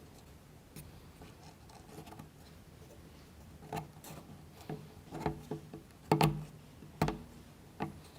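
Plywood model-kit parts being handled and pressed together: a scattered series of light clicks and knocks in the second half, the loudest a little after six seconds in.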